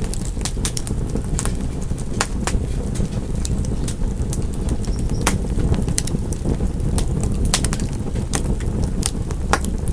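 Wood fire in a fireplace crackling: irregular sharp pops and snaps, several a second, over a steady low noise of the burning.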